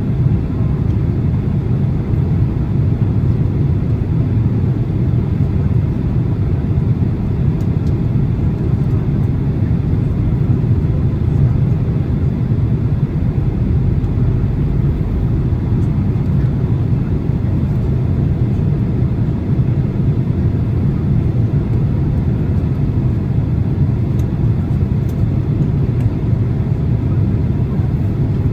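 Cabin noise inside a Boeing 767-300 on approach: a steady, deep rumble of airflow and engines, with a few faint ticks.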